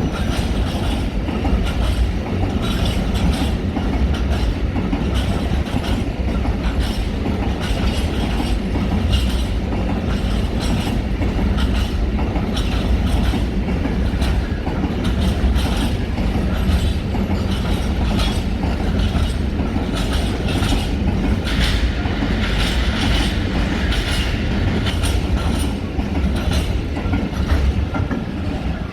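A train running along the tracks: a steady rumble with many clicks of wheels passing over rail joints and points.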